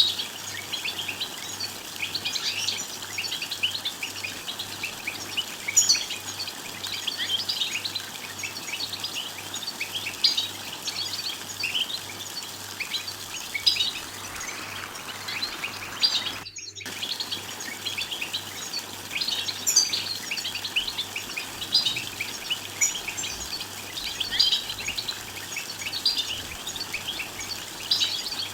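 European goldfinch song: a fast, unbroken stream of bright twittering and chattering notes, the 'bitbita' used to stir other goldfinches into singing. There is one brief, abrupt cut-out just past halfway.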